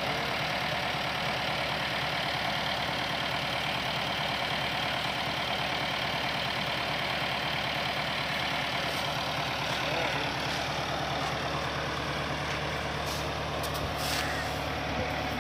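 Tractor diesel engine running steadily under load, driving a grain thresher, with the thresher's continuous rushing noise over the engine's fast, even beat. A few sharp clicks sound near the end.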